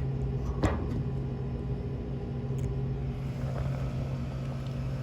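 Steady low mechanical hum with a few constant tones, and one short knock about two-thirds of a second in.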